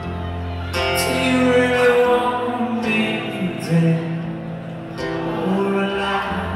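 Live acoustic guitar strumming sustained chords, a new strum about every two seconds, with some singing over it, picked up by an old mobile phone's microphone.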